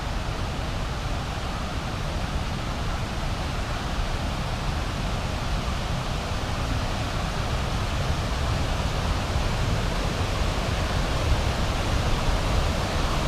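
Waterfall rushing steadily, a continuous noisy roar of falling water that grows slightly louder over the stretch.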